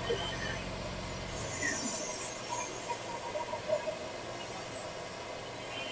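A hiss lasting about a second and a half, starting about a second in, with a fainter one later, over shop room noise. A low steady hum stops just as the first hiss begins.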